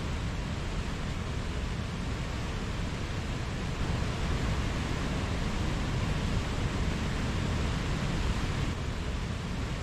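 Mountain stream rushing over rocks: a steady, even rush of flowing water, a little louder from about four seconds in to near the end.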